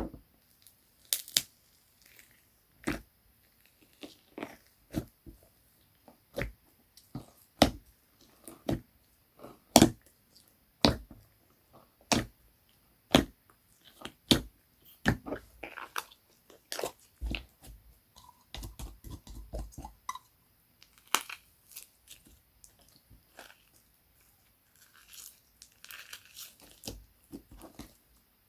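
Slime being pressed, poked and stretched by hand, making sharp irregular clicks and pops about once a second. A denser crackling comes near the middle and again near the end.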